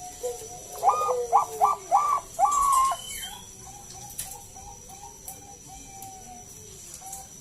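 Zebra dove (Bangkok-type perkutut) cooing. Four loud coos that rise and then hold come about a second in, followed by a fast run of short, softer notes that trails off.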